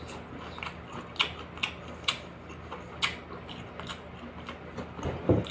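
Chewing crispy fried lizardfish with the mouth closed: irregular crisp crunches, a few spaced clicks a second, over a faint steady hum.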